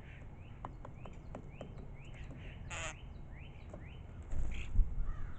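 A songbird giving a quick run of short rising chirps, about three a second, broken by one loud harsh, rasping call just before the middle. Near the end comes a louder low rumble with a thump.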